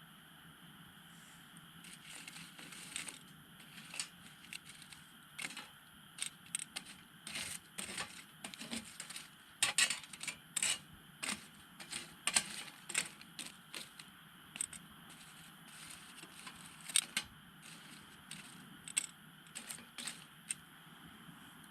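Wood fire burning down in a fire pit, crackling with scattered, irregular sharp pops over a faint steady hiss. The pops come thickest around the middle and thin out again near the end.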